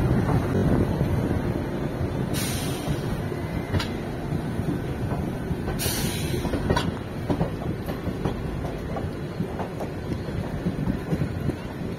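Train running on the rails: a steady low rumble with sharp wheel clicks, and two short hisses about two and a half and six seconds in.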